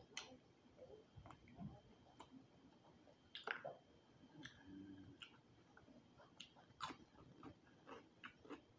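Faint close-up chewing of crispy roasted quail: irregular small crunches and mouth clicks, with louder crunches about three and a half seconds in and again near seven seconds.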